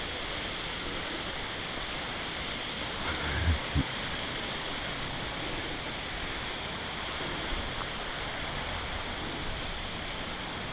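Steady rushing of the creek's waterfall, an even wash of water noise, with two soft low thumps about three and a half seconds in.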